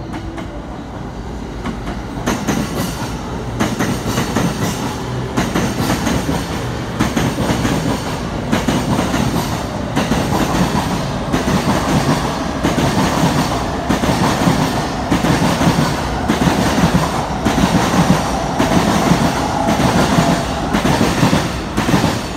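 JR East E217 series electric train departing, its wheels clacking over the rail joints in a steady rhythm as the cars roll past.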